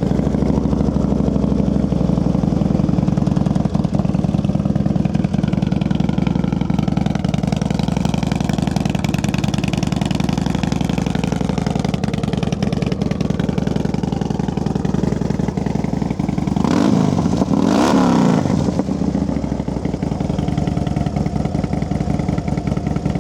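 2009 Harley-Davidson CVO Fat Bob's 110 cubic inch Screaming Eagle V-twin idling steadily through its 2-into-1 Thunder Header exhaust, revved up and back down briefly about 17 seconds in.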